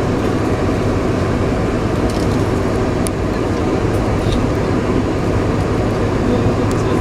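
Steady cabin noise inside a Boeing 747-436 airliner taxiing, its engines running at low thrust as a low, even hum and rush, with a few faint ticks.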